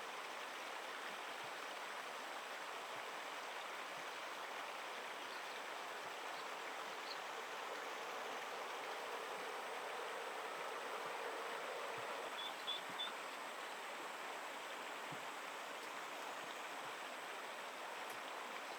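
Steady rush of flowing stream water, with three quick high peeps about two-thirds of the way through.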